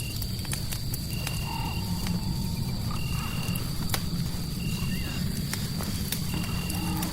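Fireplace crackling: a steady low rumble with scattered sharp pops, under a high steady whine and a short high chirp that repeats about every second and a half, as in a night-time nature ambience.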